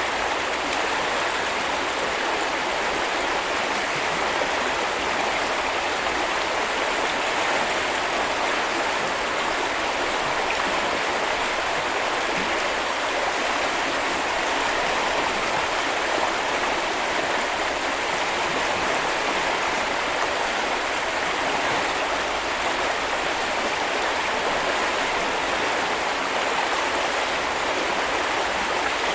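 A small river's water running steadily over stones, an even rushing and babbling with no pauses.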